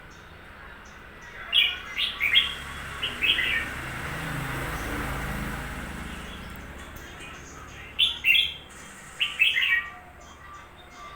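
Red-whiskered bulbul singing: two bursts of short, quick warbled notes, the first about a second and a half in and the second about eight seconds in.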